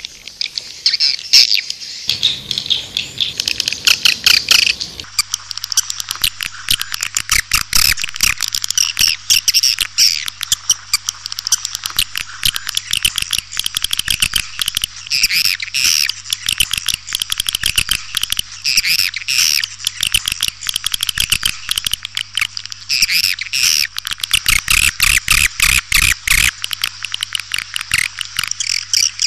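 Swiftlet lure call: a loud, dense, unbroken chatter of rapid high chirps and clicking twitters from many swiftlets, the kind played from swiftlet houses to call the birds in. A faint steady low hum sits underneath from about five seconds in.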